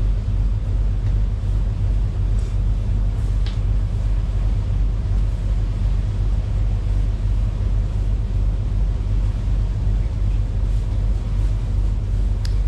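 A motorboat's twin engines running steadily, a constant low rumble.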